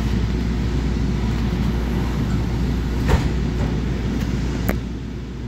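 Steady low rumble and hum inside a commuter train passenger car, with a short sharp knock about three seconds in and a lighter click just before five seconds.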